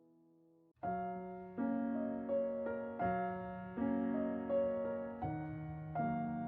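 Background piano music: a soft tail fades out, then a new piece starts just under a second in, with gentle notes and chords struck about every three quarters of a second.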